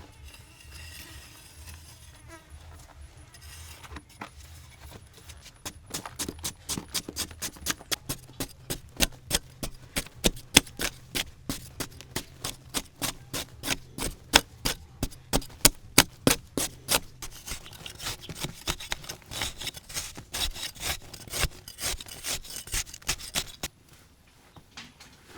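Wood being cut with a hand saw: quick, regular strokes, about three a second, starting about six seconds in and stopping shortly before the end.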